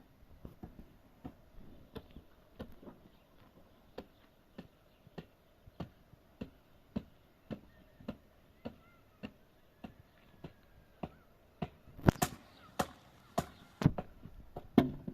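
Steady, evenly paced blows of a hand tool striking wood, about one and a half a second, turning much heavier about twelve seconds in.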